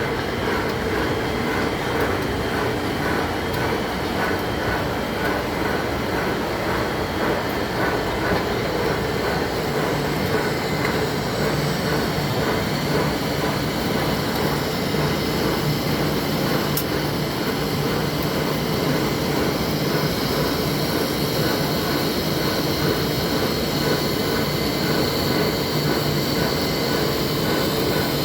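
Heavy-duty lathe turning a large steel workpiece: a steady, unbroken machine noise.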